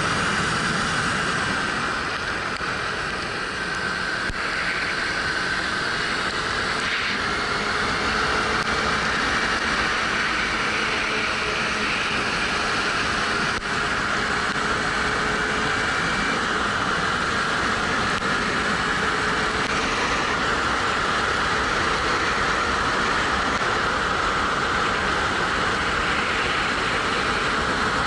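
Steady rush of wind and road noise on a helmet-mounted action camera while riding a 2013 Suzuki GW250 motorcycle. Its parallel-twin engine is faintly heard underneath, drifting a little up and down in pitch.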